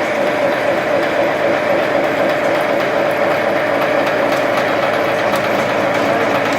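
CNC machining center with a ninety-degree angle head running: a steady whine over dense, even machine noise.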